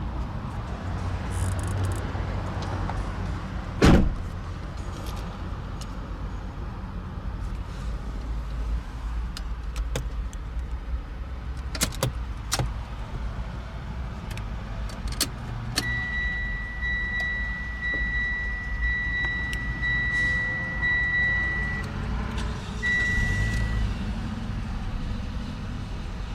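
A 2010 Citroën C-Crosser's engine idling with a steady low rumble. A loud thump about four seconds in, like a car door shutting, and a few clicks follow. Past the middle a high electronic warning chime beeps repeatedly from the dashboard for several seconds.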